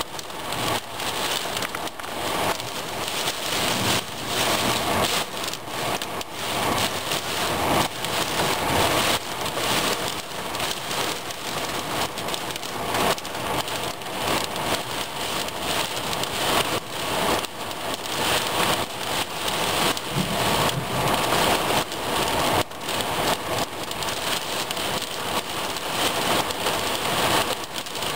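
Heavy rain falling steadily, a dense, unbroken clatter of drops striking hard surfaces, during a thunderstorm.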